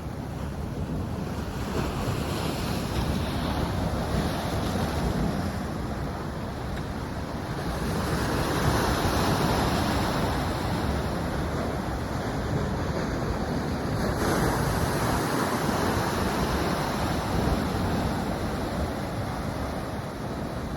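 Ocean surf breaking and washing in, swelling and easing every few seconds.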